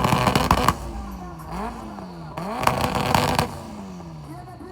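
A vehicle engine revved hard twice: each time the pitch climbs, holds at the top for about a second with a crackling exhaust note, then falls back as the throttle is released. The second rev starts about two and a half seconds in.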